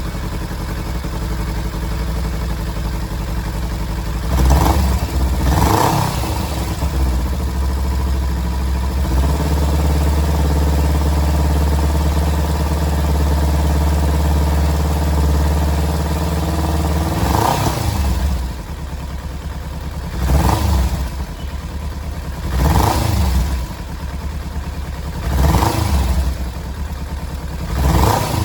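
Kawasaki Z250's parallel-twin engine running through its freshly repaired exhaust. It idles, is blipped twice about five seconds in, is held at higher revs for several seconds, then is given a short rev every two to three seconds. With the leak patched, the exhaust sounds much like the stock one.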